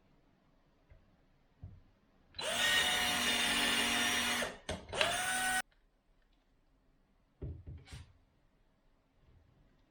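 Power drill running in two bursts, a run of about two seconds and then a short second one, each spinning up quickly to a steady whine. A few light knocks follow a couple of seconds later.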